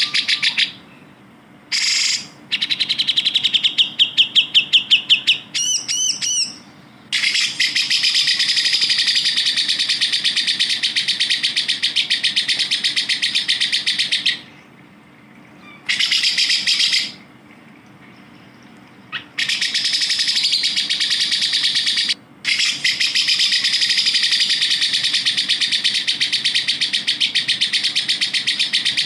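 Grey-cheeked bulbul (cucak jenggot) song: fast, rattling chattering trills lasting several seconds at a time, broken by short pauses, with a brief run of quick whistled notes about six seconds in.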